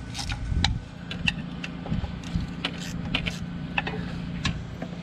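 Irregular small metal clicks and clinks of a 10 mm deep socket wrench working loose valve cover bolts off an engine.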